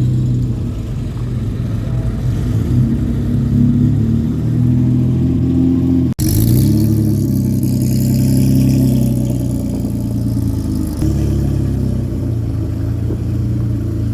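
Classic car engines running as cars pull away. The sound drops out for an instant about six seconds in, then an engine revs up briefly with a rush of hiss.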